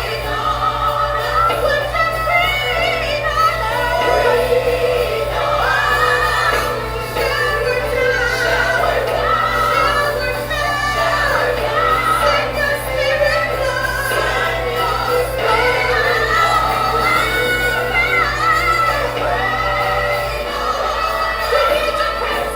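Gospel song with a female voice singing a wavering melody over instrumental backing.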